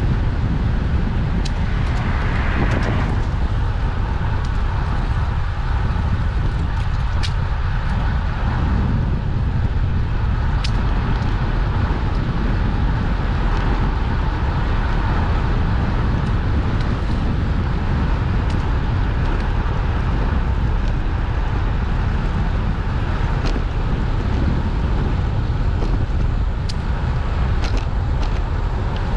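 Wind rushing over the microphone of a camera on a moving bicycle, a steady low rumble with scattered light clicks and rattles.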